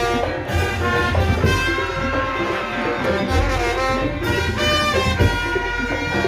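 Madurese ul daul (tong-tong) troupe music: a loud, wind-like melody line changing note every fraction of a second, over continuous drums and deep bass.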